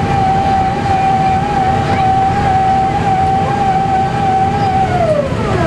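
Airbus A350-900's Rolls-Royce Trent XWB engines heard from inside the cabin, a steady high whine over a broad rumble, the whine sliding down in pitch near the end as the engines wind down.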